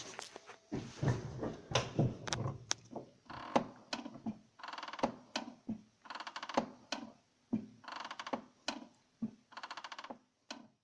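VAZ-2112 clutch pedal being pressed and released repeatedly, with about five creaking squeaks made of rapid pulses, and sharp clicks in between. The squeak comes from the clutch release fork rubbing against the worn stock clutch cable end.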